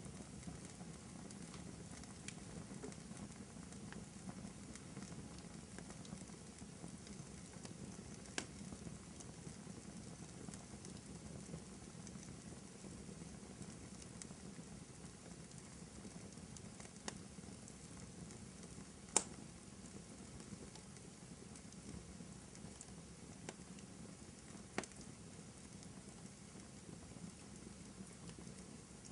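Wood fire crackling in a fireplace: a steady low rush of burning with scattered sharp pops, the loudest about two-thirds of the way through.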